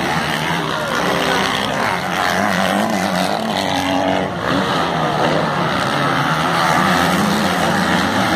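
Several motocross motorcycle engines running hard at a race, their pitch rising and falling as the riders rev and ease off.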